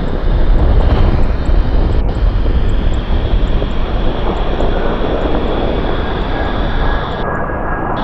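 Jet airliner engines, a loud rumbling roar that eases slightly over the seconds, with a faint steady whine joining about halfway through.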